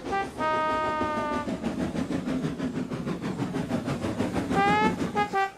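Steam locomotive chuffing in steadily along the track, under background music: a held note about half a second in and short rising notes near the end.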